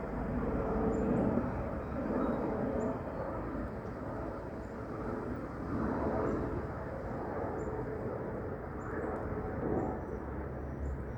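Aircraft flying high overhead, a steady distant rumble.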